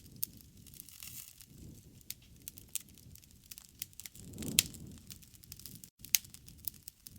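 Wood fire crackling, with irregular sharp pops over a low rumble of burning. The loudest pop comes about two-thirds of the way in.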